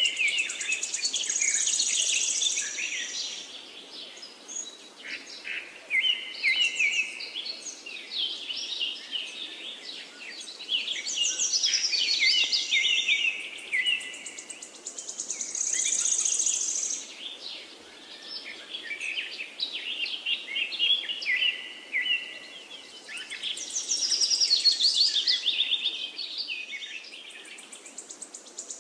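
Small songbirds chirping and twittering in a dense chorus of quick, high calls that swell and fade in waves about every 14 seconds.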